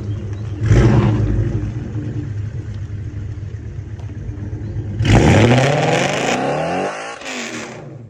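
Lexus 5.0-litre V8 with a straight-piped exhaust being revved hard. A sharp blip about a second in dies away slowly, then a long rev about five seconds in climbs in pitch and falls back, and a short blip follows before it fades. The speaker calls it loud.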